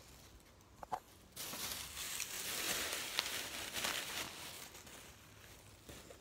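Packaging rustling and crinkling as it is handled, after a couple of light clicks about a second in, dying away after a few seconds.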